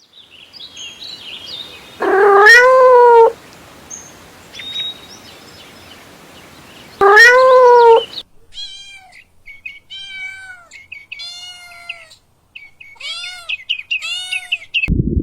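Cat meowing: two long, loud meows that rise and then fall in pitch, followed by a run of about six shorter, higher-pitched calls.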